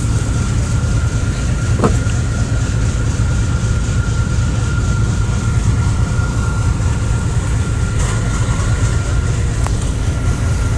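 A passenger ferry's engines running with a steady, heavy low rumble and a thin, steady high whine over it.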